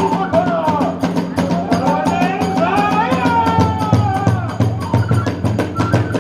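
Kagura festival music: drums and hand cymbals beating a fast, dense rhythm under a wavering high melody line, typical of the bamboo flute in a Hiroshima kagura ensemble.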